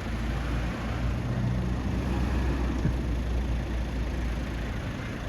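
Police vehicle's engine running steadily as it drives off, a low even rumble.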